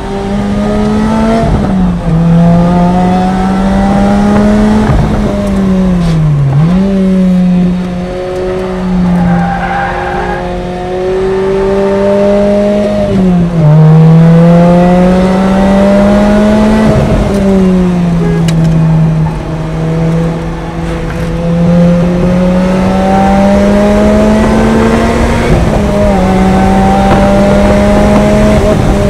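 Lotus Exige engine heard from inside the cabin while it is driven hard around a race track. The engine note climbs steadily under acceleration and drops sharply at each gear change, several times over, under a steady rush of road and wind noise.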